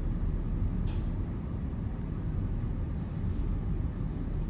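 Brushless, water-only automatic car wash running, heard from inside the car as a steady low rumble.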